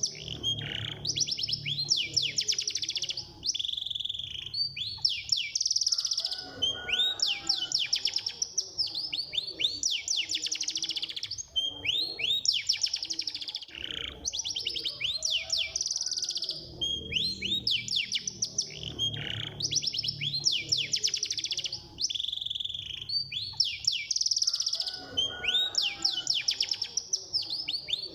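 Domestic canary singing a fast, continuous song of rapid trills and rising sweeps, its phrases repeating every few seconds.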